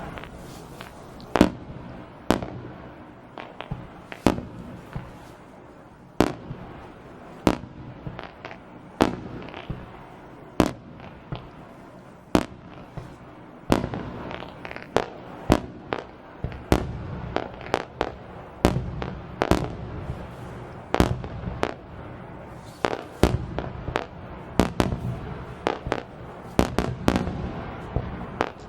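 Aerial fireworks shells bursting, a long run of sharp bangs at uneven intervals, at times several in quick succession, over a low rumble.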